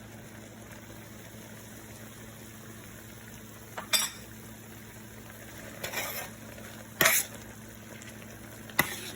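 A kitchen utensil clinking and scraping against a cooking pot in four short strokes, the loudest about seven seconds in, over a steady low hum.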